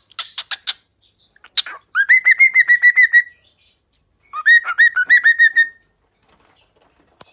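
Female cockatiel whistling: a few short chirps, then two runs of quick repeated whistled notes, about eight a second, each run lasting just over a second.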